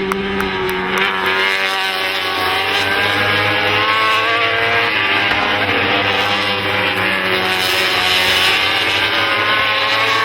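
Racing motorcycle engines running at steady, held revs, the pitch drifting only slightly, with a few sharp ticks near the start.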